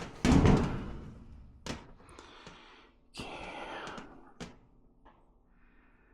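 A heavy thump about half a second in, then a few sharp clicks and a brief scraping rustle: handling knocks from tools or equipment being moved.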